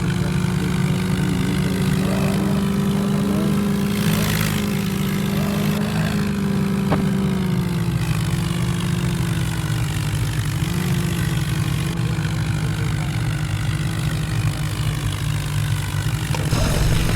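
A vehicle engine running hard at high, steady revs, its pitch sagging a little partway through.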